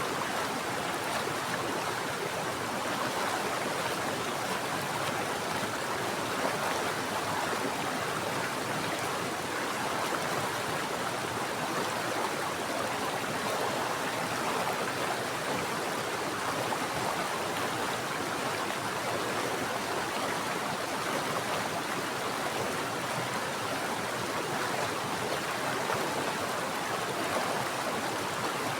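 Mountain stream flowing steadily over rocks, an even rushing and burbling of water that never changes.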